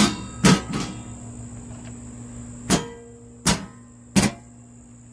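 Six sharp clicks and knocks from handling a residential breaker panel, three close together at the start and three more spaced about a second apart later, the last of them as breakers are switched back on.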